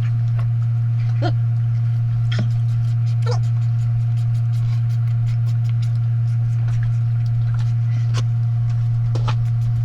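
Steady low electrical-sounding hum that dominates throughout, with scattered short clicks and brief mouth and utensil sounds of eating on top.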